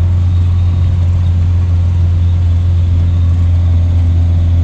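Car engine and road noise from a vehicle driving steadily, a loud, even low hum.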